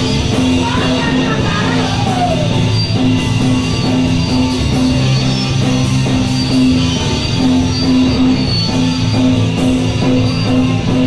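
Punk rock band playing live: electric guitar, bass and drum kit, loud and steady with regular cymbal strokes.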